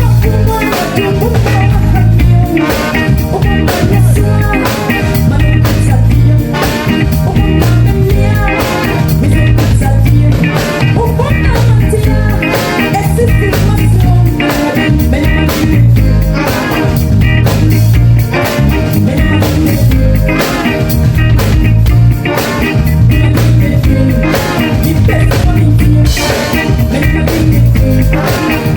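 Loud band music with a drum kit, bass and guitar playing a steady beat.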